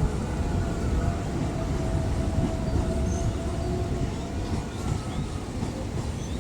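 KA Dhoho passenger train running through the station, a steady rumble of wheels and cars on the rails.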